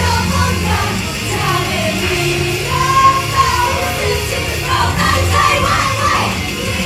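Japanese idol pop song playing loud, with a high female vocal over the backing track.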